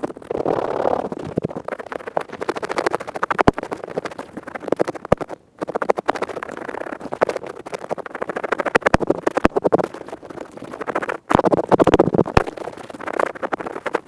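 An earpick scratching fast and close to the microphone, making a dense crackling of scratch strokes. It breaks off briefly about five seconds in and again about eleven seconds in.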